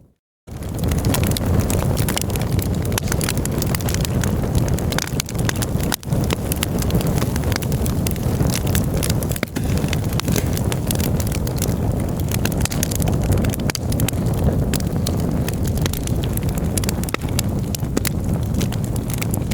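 Campfire burning, with dense irregular crackling and sharp pops of burning wood over a steady low rumble. The sound drops out briefly for about half a second at the very start, then runs on evenly.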